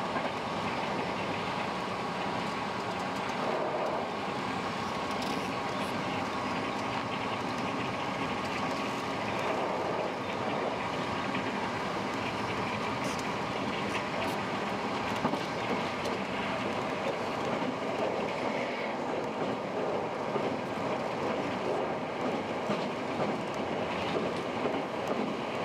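Hankyu 6300 series electric train running at speed, heard from inside the front car: a steady rumble of wheels on rail with a constant hum, and a few sharper knocks in the second half.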